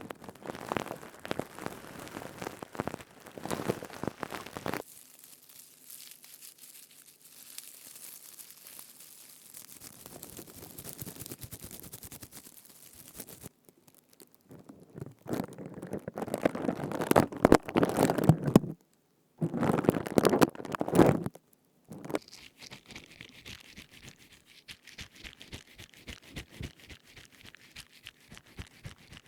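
Crisp crackling rub-and-squeeze sounds from scouring pads and similar materials handled close to the microphone, in several short segments that change abruptly, loudest for a few seconds in the second half.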